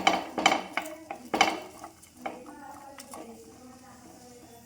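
Cutlery clinking and knocking against dishes in a kitchen. There are several sharp clinks in the first second and a half, then lighter, sparser taps.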